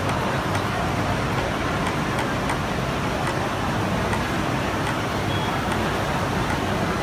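Steady machine noise from a Vector template cutter running, with faint ticks now and then.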